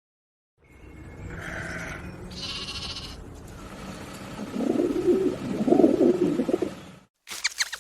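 A farm animal bleating, loudest and most sustained in the second half of the clip, over steady background noise. A brief higher call and some chirping come earlier.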